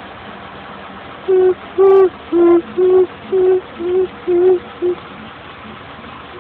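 A voice singing or hooting a run of eight short, evenly spaced 'doo' notes on nearly the same pitch, lasting about three and a half seconds.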